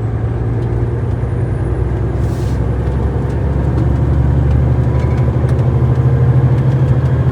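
Renault T-range lorry's diesel engine droning steadily while driving at road speed, heard inside the cab; the drone grows a little louder about halfway through.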